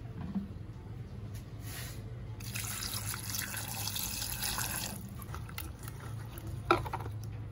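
Water running for about two and a half seconds, starting a couple of seconds in and stopping, followed by a single sharp click near the end.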